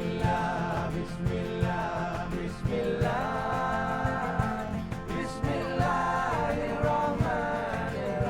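Live ensemble music: a wavering melody line over a bass line and a steady hand-percussion beat.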